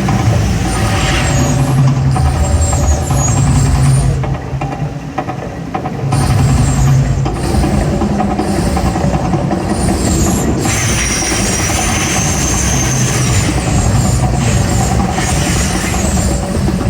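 Gas flame jets of the Mirage volcano attraction going off in loud rushing blasts, with a low rumble underneath. A short lull comes about four seconds in.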